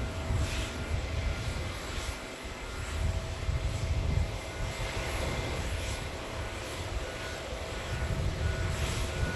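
Jet airliner engines rumbling steadily, a deep low rumble that swells and eases under a broad roar.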